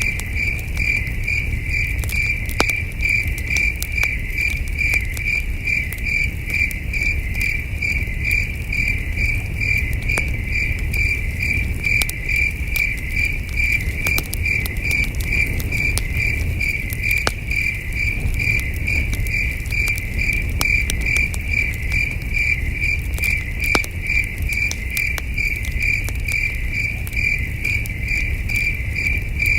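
Crickets chirping in a steady, evenly spaced rhythm, over campfire crackle: scattered small pops and a low rumble.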